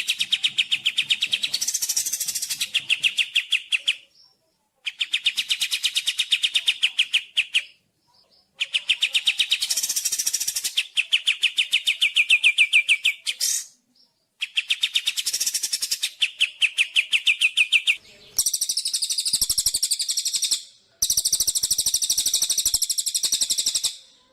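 Songbird song on a training recording: six rapid trills of fast, evenly repeated notes, each lasting a few seconds, with short pauses between them. The last two trills are higher and harsher than the first four.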